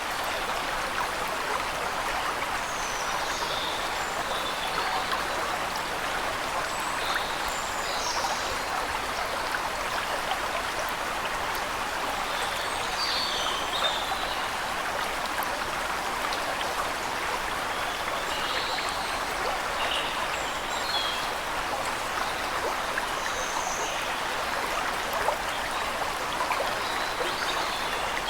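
Steady rush of water from a waterfall, even and unbroken, with faint, high bird chirps every few seconds over it.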